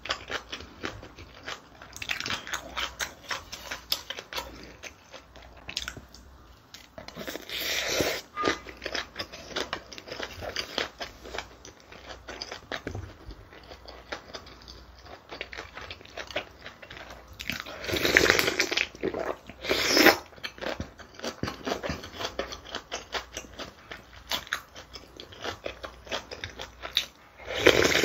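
Close-miked chewing and crunching of a mouthful of bibimbap (rice mixed with seasoned vegetables and gochujang), full of quick small mouth clicks. There are a few louder, rougher bursts: one about a quarter of the way in, two about two-thirds in, and one near the end.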